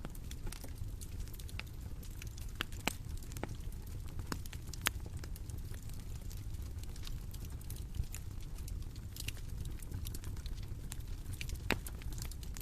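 Bonfire crackling: irregular sharp pops and snaps of burning wood over a steady low rumble of flame.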